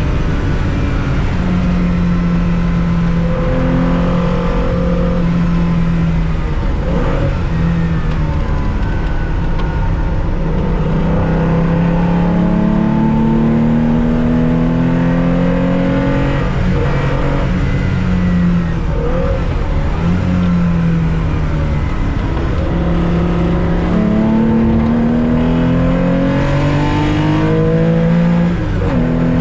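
Porsche 911 2.0's air-cooled flat-six heard from the cockpit at racing speed, pulling hard with its note climbing and then dropping sharply at each gear change, several times over.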